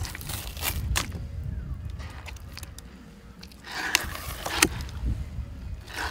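Skin being peeled off a thornback ray wing with pliers: a few short scrapes and clicks over a low steady rumble.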